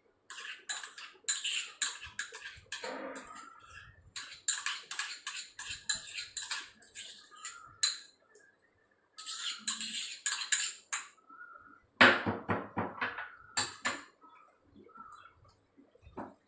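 A utensil scraping and knocking against a mixing bowl as thick brownie batter is stirred and folded, in quick runs of strokes with a short pause about halfway, a louder flurry near the end, then lighter scrapes.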